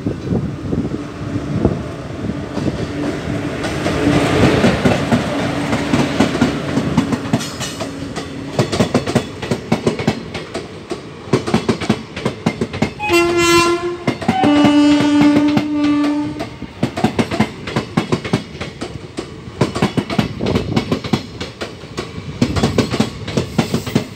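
Passenger train hauled by an electric locomotive running through a station: a rising rumble as the locomotive comes in, then a steady clickety-clack of the coach wheels over the rail joints. About halfway through the horn sounds twice, a short blast and then a longer one.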